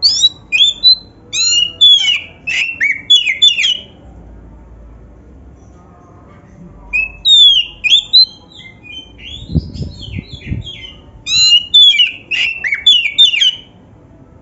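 Oriental magpie-robin (kacer) singing in three bursts of rapid, varied high notes with quick downward sweeps, its song filled with phrases copied from a canary.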